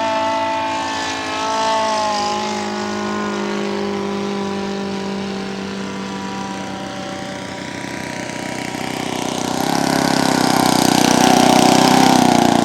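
Radio-controlled model seaplane's engine buzzing as it flies past, its pitch dropping about two seconds in as it goes by. It then runs steadily and grows louder again near the end as the plane comes back around.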